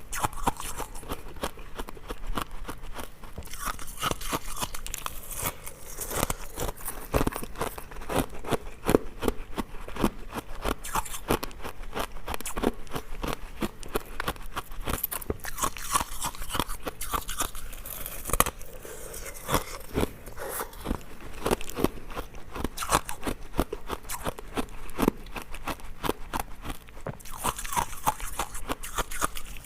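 A person biting and chewing hard ice cubes: a rapid, irregular run of sharp crunches and cracks.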